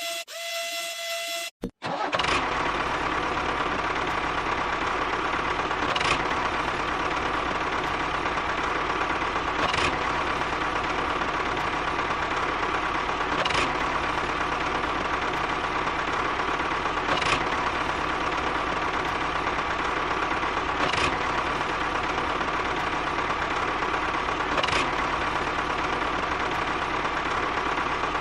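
Steady engine-like running, even in level, with a short click about every four seconds; before it, a different sound with steady tones cuts off about a second and a half in.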